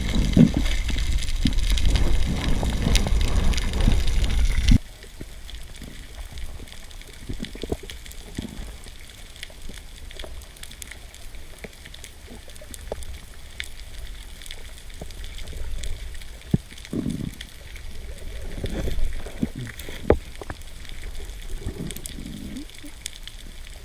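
Loud rushing water for the first five seconds, then a sudden drop to quieter underwater sound with scattered low swishes and sharp clicks.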